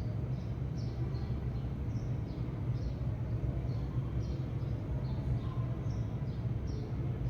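Sparrows chirping: short high chirps, about two or three a second, over a steady low hum.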